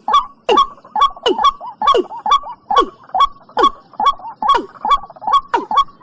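Watercock (cúm núm) calling in a fast, even series of short calls, about two to three a second, each sliding down in pitch.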